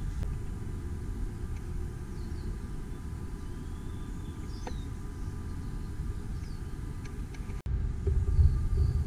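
1968 Triumph GT6's straight-six engine idling with a steady low rumble. It drops out for an instant about three-quarters of the way through and comes back louder.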